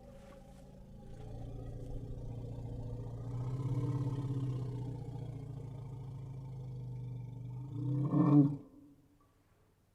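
Elephant giving a long, low, pitched rumble that swells over the first few seconds and holds, then a short, louder call about eight seconds in before it goes quiet.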